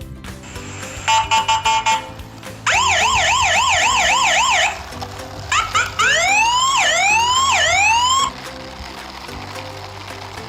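Electronic siren sounds over background music: a short stuttering beep, then about two seconds of fast warbling yelp, then three rising whoop sweeps, stopping about eight seconds in.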